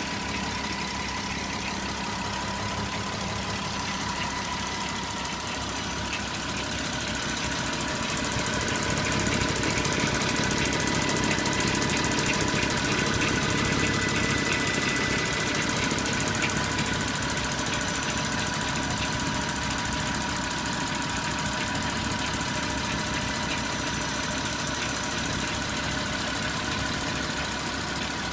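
Porsche Cayenne 957's 3.6 FSI V6 engine running steadily with a rapid mechanical ticking and rattle, which the owner puts down to a worn timing chain grinding and an FSI knocking noise. It grows louder for several seconds in the middle.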